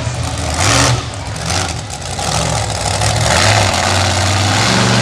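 Monster truck engine revving hard and easing off in turns, with a loud surge in the first second and the revs climbing again about three seconds in.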